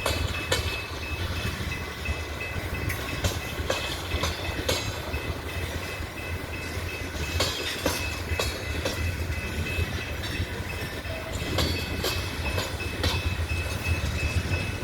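Loaded coal train rolling slowly, its steel wheels giving a steady low rumble with scattered clicks and clanks over the rail joints, and a faint steady high squeal.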